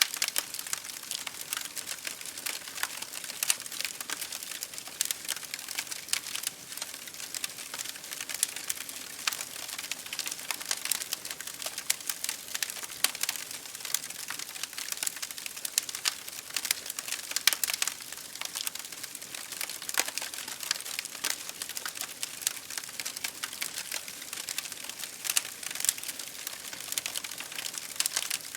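Wood fire crackling in a fireplace, a dense stream of sharp crackles and pops over a steady hiss of rain against a window.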